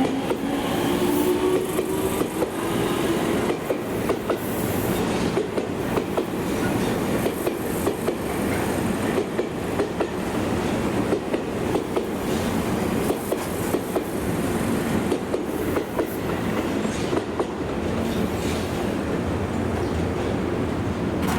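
Tobu Tojo Line electric commuter train running past at low speed, its wheels clicking again and again over rail joints and points. A falling motor whine dies away in the first few seconds.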